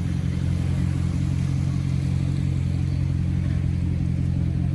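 Jaguar XK180's engine idling steadily, a low, even hum with no revving.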